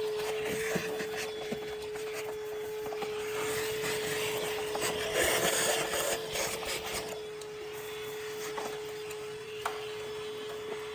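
Vacuum running with a steady motor whine, sucking debris out of a heat pump's outdoor condensing unit, its nozzle scraping and rattling against the unit. The scraping and sucking is busiest about four to seven seconds in.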